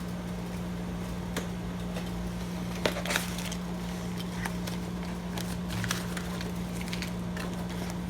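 Deadbolt hardware and its packaging being handled: scattered clicks and rustles, the sharpest a little under three seconds in, over a steady low hum.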